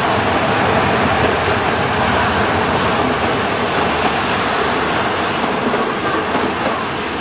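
A diesel-hauled passenger train running past close along the platform. The locomotive goes by first, then its coaches, with a steady, loud noise of wheels on rails.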